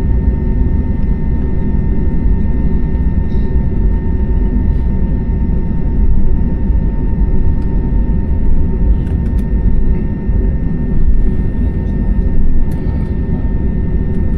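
Jet airliner cabin noise: a steady low rumble of engines and airflow, with a few steady tones running through it and a couple of faint clicks in the second half.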